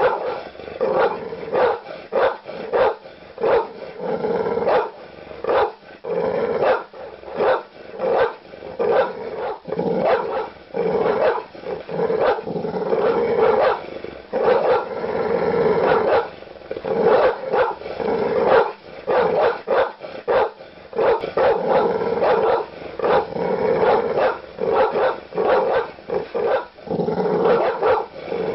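Large dog barking aggressively with deep barks, in rapid, almost unbroken runs of several barks a second.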